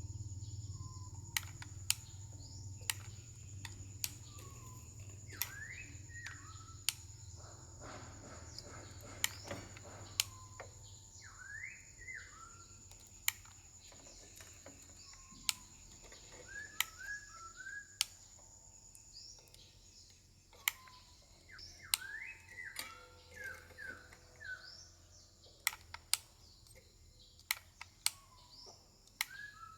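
Irregular sharp clicks, a few seconds apart, with birds chirping in the background.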